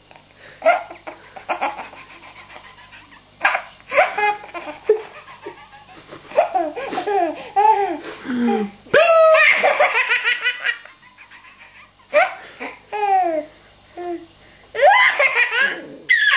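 A baby laughing in repeated bursts of hearty laughter, with short gaps between them and the longest, loudest laugh a little past the middle.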